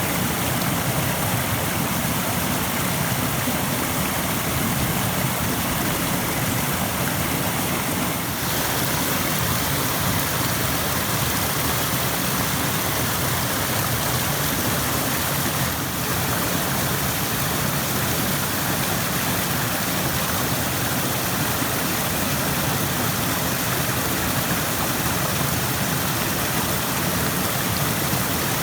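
Rushing stream water: a steady, even rush of flowing water with no break.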